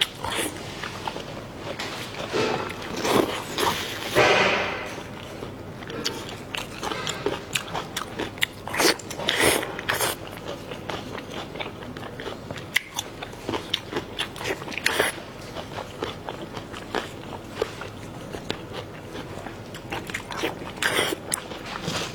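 Close-miked mukbang eating: a person biting and chewing food with many short, wet clicks and crunches, and a few longer, louder bursts.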